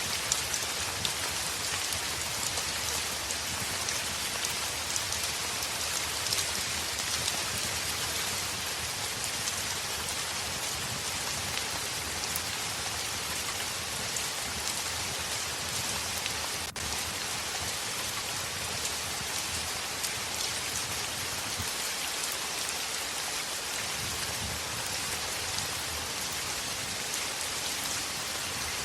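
Steady heavy rain on a window, an even hiss with scattered small drop ticks. The sound cuts out for a split second about two-thirds of the way through.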